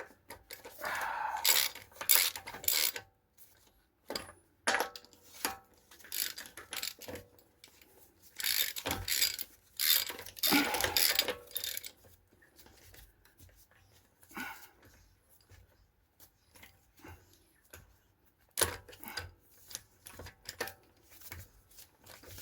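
Metal hand tools and parts clinking and rattling as they are handled and set down, in several bursts of clatter with quieter ticks between.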